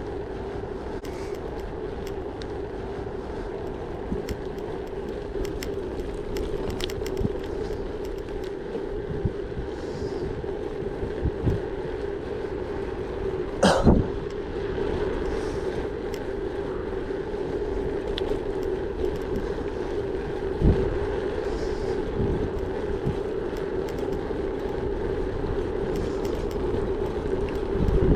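Gravel bike riding along: steady tyre noise on the track with occasional short knocks and rattles from bumps, the loudest about halfway through.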